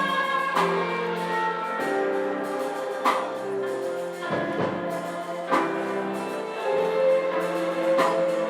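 Worship music in church: a congregation singing a worship song with instrumental accompaniment, notes held and changing about every second.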